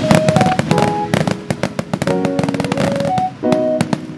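Fireworks bursting and crackling in a fast string of sharp bangs that thins out over the last two seconds, with music playing underneath.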